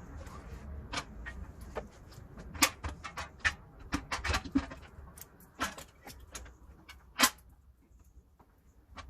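Irregular metallic clanks and knocks as an engine is worked into place in a car's engine bay, the loudest about seven seconds in.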